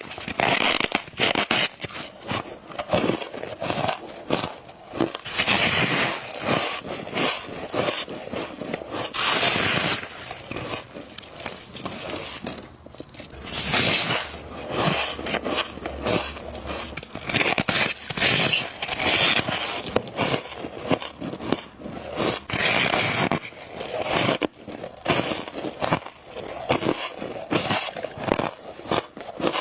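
Close-miked biting and chewing of frost, with crisp crunching and crackling in repeated clusters a second or two long.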